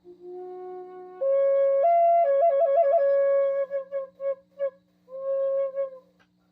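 Wind instrument played by a learner still working on it: a low wavering note, then higher held notes, a quick run of short repeated notes, and a few separate short notes, stopping about six seconds in.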